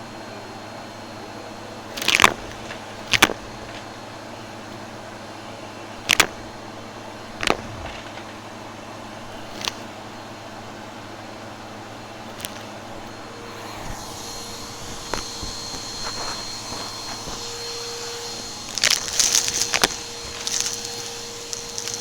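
Vacuum cleaner running with sharp crunches and pops as debris is sucked up. About halfway through a high whine comes in, with a burst of crackling near the end.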